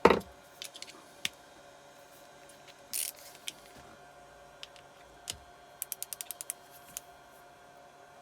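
Hand tools being handled while a 10 mm socket is fitted. There is a sharp metal clank at the start, then scattered clicks and a short rustle, and a little after halfway a quick run of about eight even ratchet clicks.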